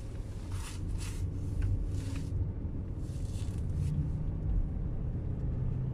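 A steady low rumble, with a few brief hissing noises in the first half.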